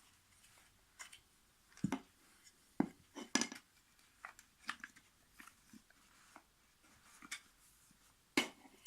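Wooden IKEA toy train track pieces being handled and fitted together: irregular clicks and knocks of wood on wood, with a louder knock near the end.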